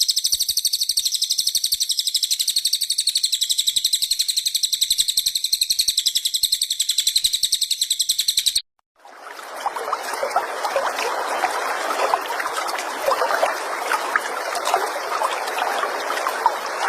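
Recorded bird song from a songbird tutor track: a fast, even, high-pitched trill that runs for about eight and a half seconds and cuts off abruptly. After a brief gap comes a dense, lower chattering with many quick chirps.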